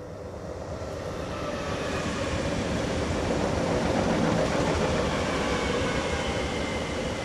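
ÖBB Cityjet electric commuter trains running past at speed. The wheel and rail rumble builds as they approach and is loudest about four seconds in, with a faint whine over it.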